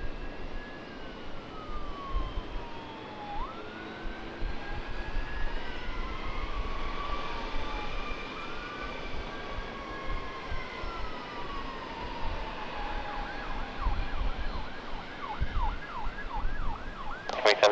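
Emergency vehicle siren wailing in slow rising and falling sweeps, with overlapping wails. Near the end it switches to a fast yelp and becomes much louder. Low rumble underneath.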